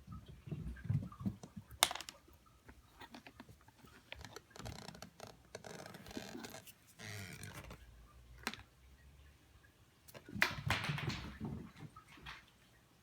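A cat scrambling after a tossed cough drop on a hard floor: light taps, scuffles and a few sharp clicks, with two longer stretches of rustling, one around the middle and one near the end.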